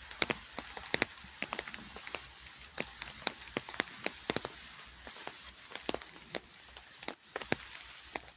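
Rain falling, a steady hiss of rain with many irregular, sharp drop taps landing close by.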